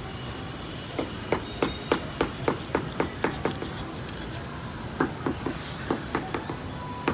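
Two runs of sharp, rapid knocks or taps, about four a second, the first lasting a couple of seconds and the second starting about five seconds in.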